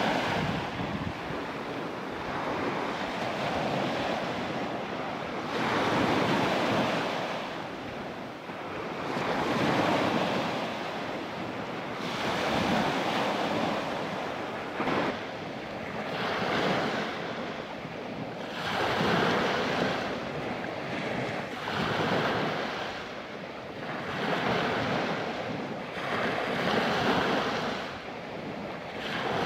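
Surf washing onto a sandy beach, swelling and fading every two to three seconds, with wind buffeting the microphone.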